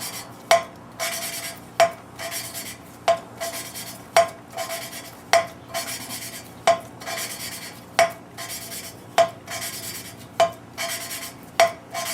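Engine valve being hand-lapped into its seat in a cylinder head with coarse lapping compound. A sharp click comes about every 1.2 s, and each is followed by a short gritty rasp of the valve face grinding against the seat.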